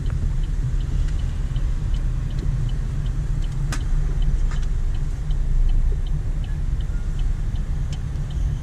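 Car interior road and engine rumble while driving slowly, with a regular light ticking about twice a second.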